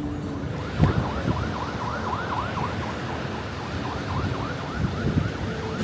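Emergency-vehicle siren in a fast yelp, its pitch rising and falling about three times a second, over street traffic noise. A short thump sounds about a second in.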